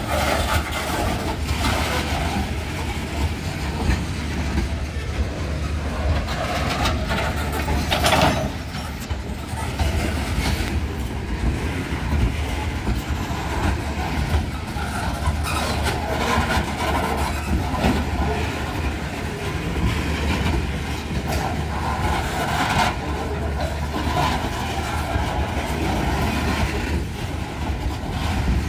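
Freight train's open-top hopper cars rolling past close by: steel wheels clattering over the rail joints over a steady rumble, with a loud clank about 8 seconds in.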